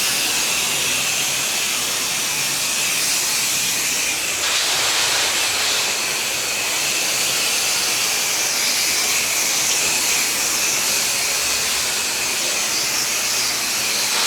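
Pressure washer wand spraying: a steady, loud hiss of water leaving the nozzle, with the machine's engine running underneath. The spray's tone shifts slightly about four and a half seconds in.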